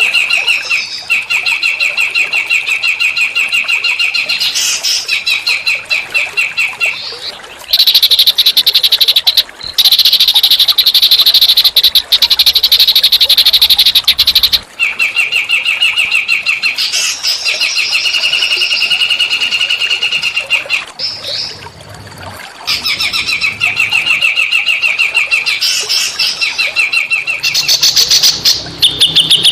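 Small songbirds singing long, fast rattling trills, one after another. A louder, harsher buzzing phrase runs from about eight to fifteen seconds in.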